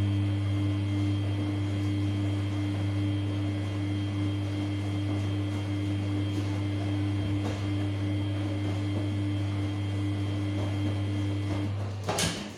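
Samsung P1271 washing machine giving a steady low electric hum with a fainter higher tone over it, which cuts off abruptly about a second before the end and is followed by a brief rush of noise.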